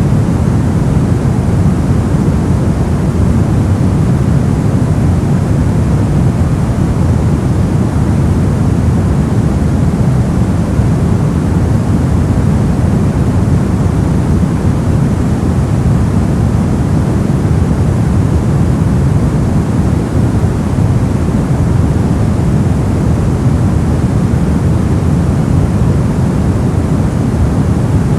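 Steady, unchanging noise of a white-noise sleep track, loudest in the low range and thinning toward the top, so it sounds deep and rushing rather than hissy.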